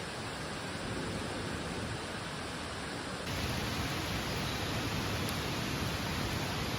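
Steady, even rushing noise of the outdoor surroundings, with a slight change in tone about three seconds in.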